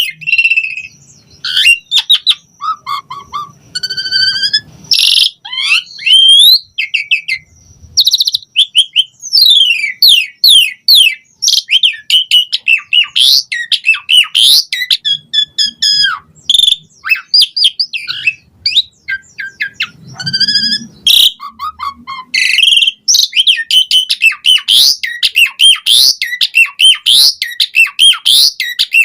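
Asian pied starling (jalak suren) in full, persistent song: a fast, unbroken run of varied whistles, rising and falling sweeps and chattering notes.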